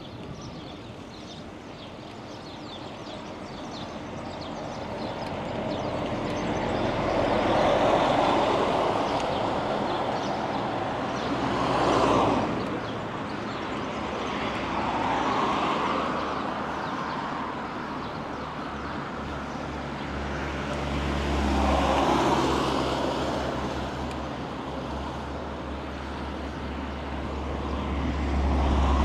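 Road traffic: several motor vehicles pass one after another, each swelling up and fading away, one sharper pass about twelve seconds in. A low engine hum runs through the second half.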